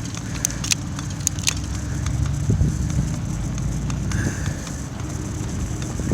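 Bicycle riding through blizzard snow: a steady low rumble of tyres and wind, with a few sharp clicks in the first second and a half.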